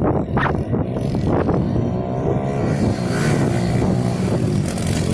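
Small-displacement pit bike engine running hard and revving, its pitch sliding down and then climbing again.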